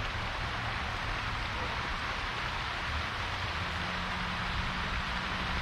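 Steady hiss of falling, splashing water from a pond's aerator fountain, with a low rumble underneath.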